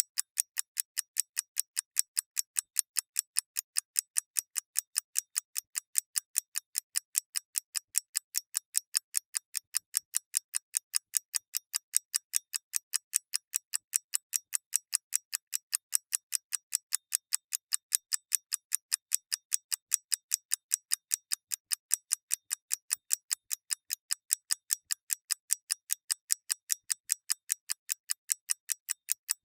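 Mechanical watch movement ticking fast and evenly, about five ticks a second, each tick thin and bright with no low end.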